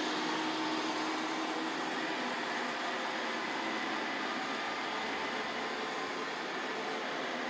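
Roomba robot vacuum cleaner running with a steady, even whir.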